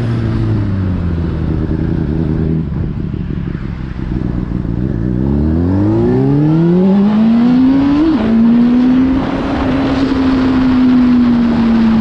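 Motorcycle engine running at low revs for the first half. From about halfway it revs up in one rising sweep, dips briefly about two-thirds through, then runs steadily at higher revs.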